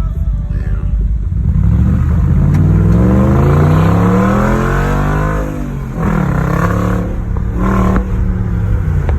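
Audi V8 engine with a customized, loud exhaust accelerating, its pitch rising over several seconds. It drops sharply on an automatic gear change, then rises again in shorter pulls.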